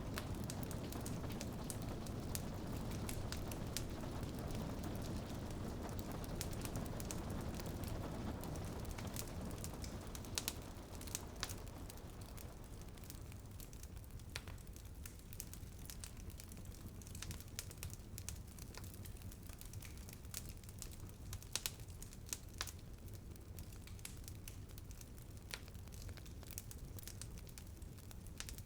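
Wood fire crackling in a fireplace: irregular sharp snaps and pops, a few louder ones around ten to eleven seconds in and again past twenty seconds, over a steady low rumble. A soft hiss of rain fills the first part and fades out about halfway through.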